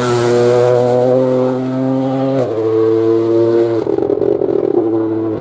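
Rally car engine running hard at high revs, with abrupt changes in pitch about two and a half and four seconds in as it shifts gear.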